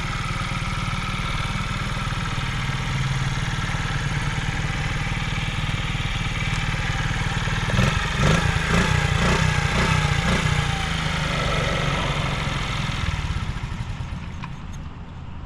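1999 Honda Z50R's small four-stroke single-cylinder engine idling, given several quick blips of the throttle about eight seconds in, then dropping back to idle.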